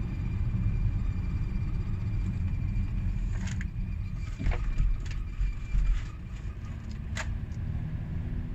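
A creaking vehicle on the move: a steady low rumble, with a few sharp creaks and knocks from its body in the middle and once near the end.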